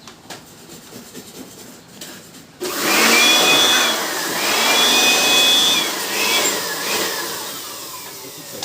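A small electric motor switched on about two and a half seconds in, running with a loud rushing whine whose pitch dips and rises a few times, then winding down with a falling whine near the end.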